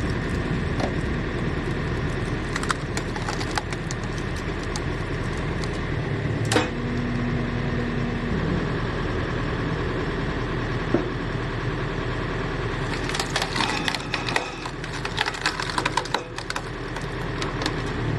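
Hydraulic log splitter forcing a log apart with its engine running steadily: the wood cracks sharply about six and a half seconds in and again near eleven seconds, then splinters in a rapid run of crackling snaps over the last five seconds.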